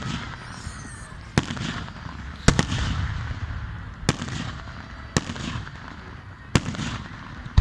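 Fireworks going off: about six sharp bangs, spaced one to one and a half seconds apart, over a low rumble.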